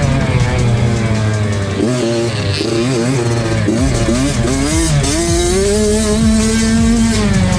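A 65cc two-stroke motocross bike's engine being ridden hard. Its pitch rises and falls over and over as the throttle opens and closes.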